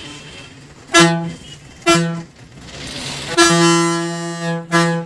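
Bus horn honking at one steady pitch: two short blasts, then a long one of about a second, then another short one near the end.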